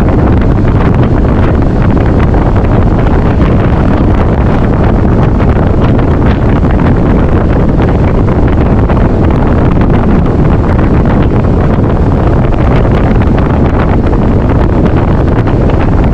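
Heavy wind rushing over the microphone on a boat running at speed, a loud steady roar that cuts off suddenly at the end.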